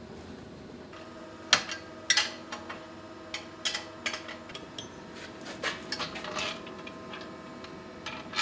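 Irregular sharp metallic clicks and taps, about a dozen spread unevenly over several seconds, from metal exhaust pipe parts and tools being handled during muffler fabrication, over a faint steady hum.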